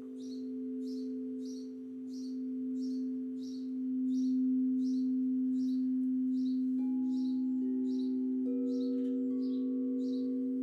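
Singing bowls sustaining a steady, ringing low drone, with new, higher notes joining about two-thirds of the way through. Above them, a bird's short high chirp repeats evenly, about twice a second.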